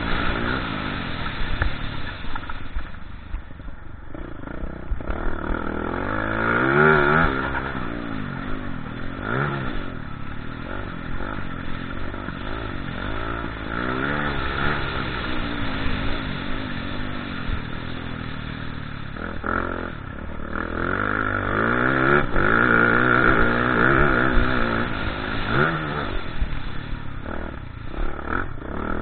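Motocross bike engines revving hard, their pitch climbing and dropping again and again through gear changes and throttle. They swell louder twice, as if passing close.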